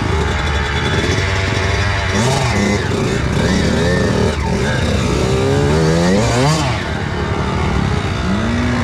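Kawasaki KX85 two-stroke single-cylinder dirt bike engine being ridden, revving up and down repeatedly, its pitch rising and falling several times.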